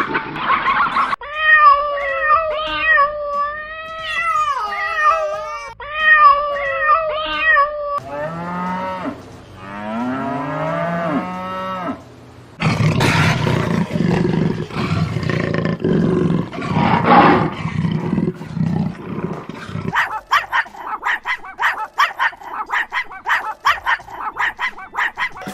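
A run of different animal calls one after another: whistled, warbling tones, then short gliding calls, then a long loud harsh call, then a fast pulsing series of calls near the end.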